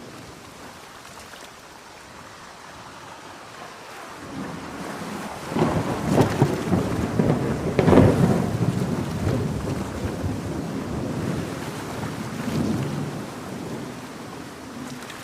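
A thunderclap over steady heavy rain: a crackling peal builds about five and a half seconds in, peaks around eight seconds and rolls away over the next several seconds.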